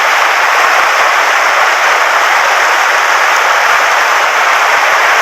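Swollen mountain stream rushing loudly and steadily, a fast current running high after heavy rain.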